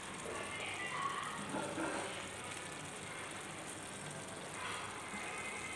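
Chopped bottle gourd cooking in a little water in a stainless steel pan, a soft, steady sizzle.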